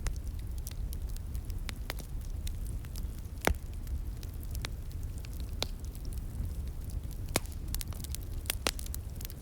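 Wood fire crackling and popping, with sharp irregular snaps, one loud pop about three and a half seconds in, over a steady low rush, which the material ascribes to a flowing stream.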